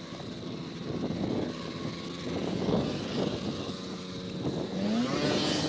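Two-stroke snowmobile engines running at a grass drag. Near the end one revs up, its pitch rising and then holding steady as it gets louder.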